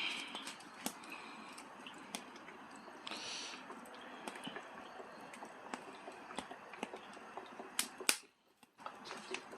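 Wood fire crackling under a cooking pot, with scattered sharp pops and snaps over a steady low rush, and a short hiss about three seconds in.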